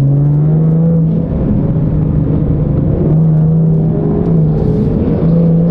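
Car engine running and revving, its note rising, dipping briefly about a second in, then holding fairly steady.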